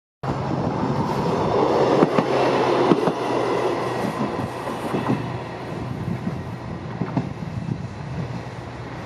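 A KiHa 120 diesel railcar passing, its engine humming steadily while its wheels click over rail joints. It is loudest about two to three seconds in, then slowly fades as it draws away.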